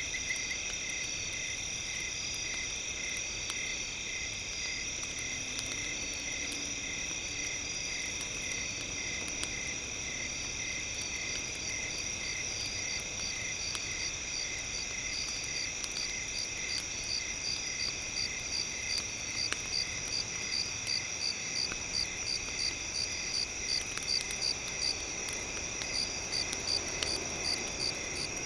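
Crickets or other insects chirping in rapid pulses, growing more prominent in the second half, over a bed of steady high electronic tones. Faint crackles of a campfire run through it.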